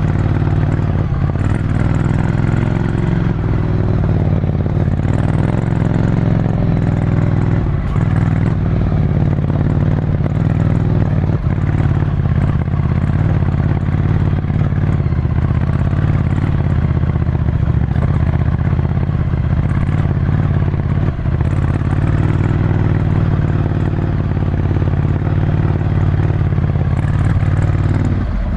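Ducati Scrambler Desert Sled's air-cooled 803 cc L-twin, with a full Termignoni exhaust, running at a mostly steady low engine speed under way, heard from onboard the bike.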